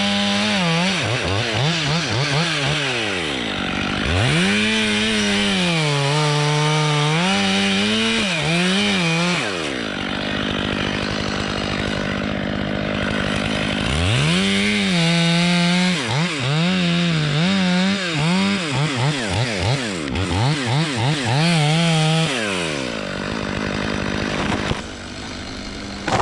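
Two-stroke chainsaw cutting into the dead white oak. It runs up to full throttle in several spells, its pitch sagging and recovering as the chain loads in the cut, and drops back between them.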